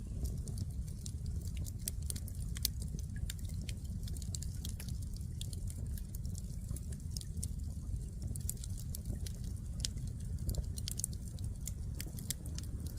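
Firewood burning in an open fire, crackling with many irregular sharp pops and snaps over a steady low rumble.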